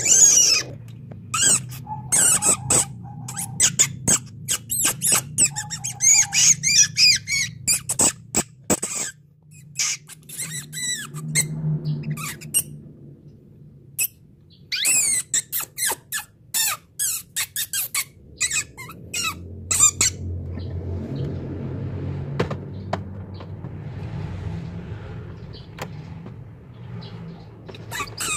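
Domestic canary singing: fast high trills and chirps in quick bursts, stopping about two thirds of the way through, over a low background hum.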